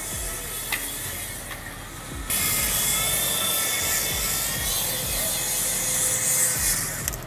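Small electric toy RC helicopter whirring in flight: a steady motor whine over rotor hiss, which jumps louder about two seconds in.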